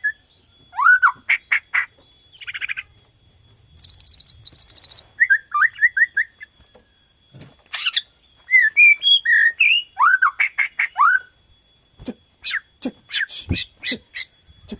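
Bornean white-rumped shama (murai batu Borneo) singing in short, varied phrases: rising and falling whistled slurs and quick trills with brief pauses between them, then a run of sharp clicking notes near the end.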